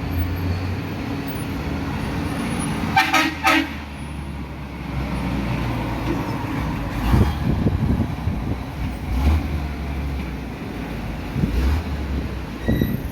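Two short horn toots, about half a second apart, over a steady low rumble.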